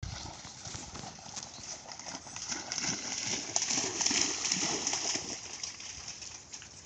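A bulldog–pitbull mix dog running, its paws thudding in quick irregular footfalls, loudest about four seconds in as it comes close, with a rushing hiss.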